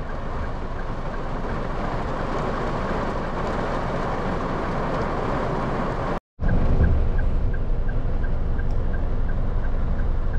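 Heavy rain falling on a car's roof and windows, heard from inside the car as a dense, steady noise. It breaks off for an instant about six seconds in and comes back with more low rumble and a faint regular ticking, about two ticks a second.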